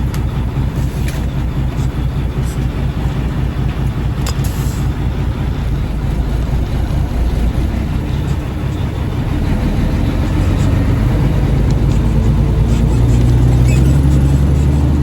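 Dump truck's diesel engine running steadily and growing louder through the second half.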